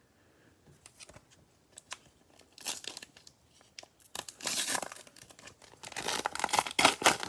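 Plastic cello-pack wrapper of trading cards being torn open and crinkled, in crackly bursts that grow louder toward the end.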